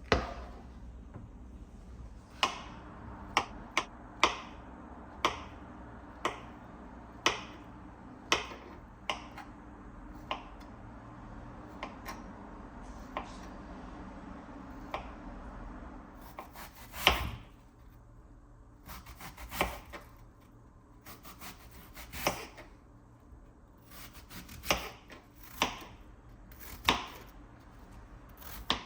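Knife chopping on a cutting board: single sharp strokes about once a second at first, then irregular quick runs of strokes in the second half.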